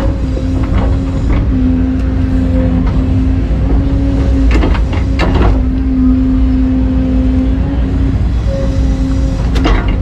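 Large excavator's diesel engine running with a steady humming tone, and sharp metal clanks several times, about a second in, in a quick cluster near the middle, and near the end.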